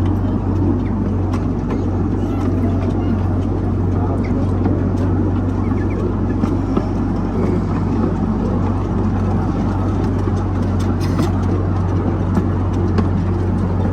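A ride-on park train running: a steady low engine drone with a rumbling undertone and scattered faint clicks.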